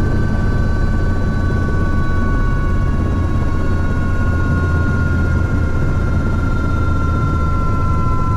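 Helicopter running: a steady low rotor drone under a high turbine whine that slowly falls in pitch.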